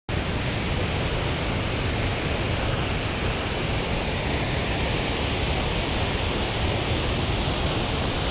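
Steady roar of a waterfall, an even rushing noise with no breaks, starting abruptly at a cut.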